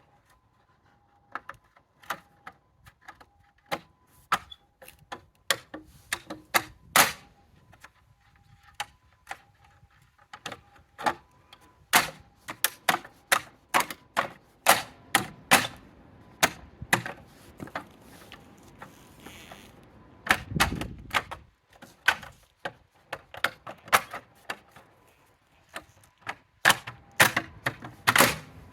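Irregular series of sharp clicks and knocks from hand tools working on a car wheel, some in quick runs and some spaced out, with a duller thud about twenty seconds in.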